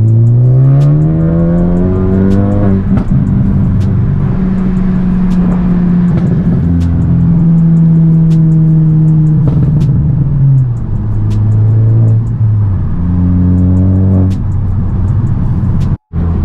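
Ford Focus ST turbocharged four-cylinder running through a catless AWE Track exhaust with a Vibrant ultra quiet resonator, revving up under acceleration over the first few seconds and then holding steady. The pitch drops back around ten seconds in and climbs again briefly. The sound cuts off abruptly for an instant near the end.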